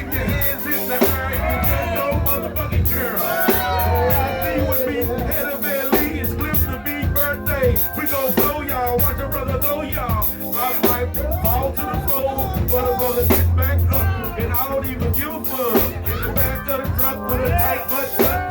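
Live band music: drum kit and a heavy bass line, with a voice singing melodic lines over them.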